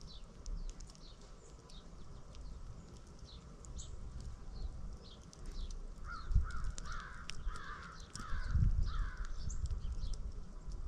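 Small birds chirping in quick, short falling notes, joined a little past halfway by a run of about six harsh, crow-like calls in quick succession. Low thumps and rumbles come in briefly around the same time.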